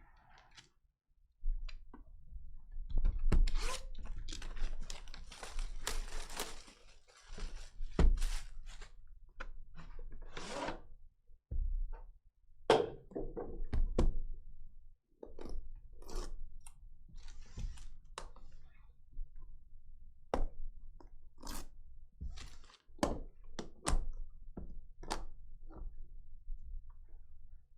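Hands opening a trading-card box and handling its contents: a string of thunks, knocks and clicks with stretches of rustling and crinkling.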